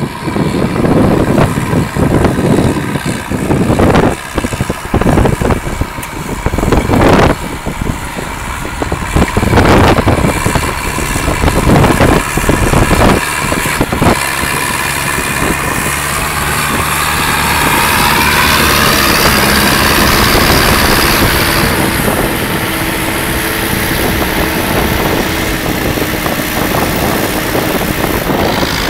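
Zetor 7745 tractor's diesel engine running. The first half is broken by loud, irregular knocks and bumps. After that it settles into a steady run, and the engine speed rises and then holds.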